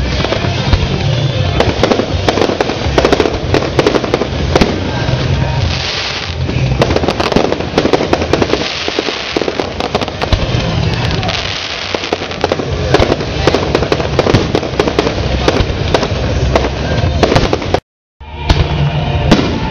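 A fireworks display with many rapid bangs and crackles going off one after another, over music. The sound cuts out completely for a moment near the end.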